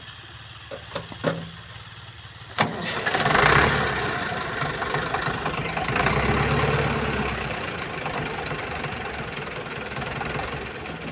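HMT 5911 tractor's diesel engine running low and even; about two and a half seconds in there is a sharp click, then the engine picks up loudly and settles into a steady, louder run.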